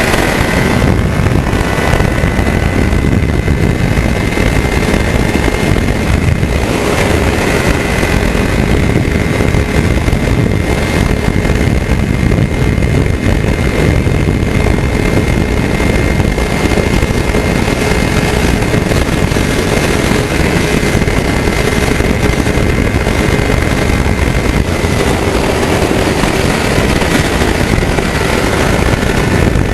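Kawasaki Ninja 300's parallel-twin engine running at a steady highway speed, with heavy wind rush on the microphone. The engine's pitch holds nearly level throughout.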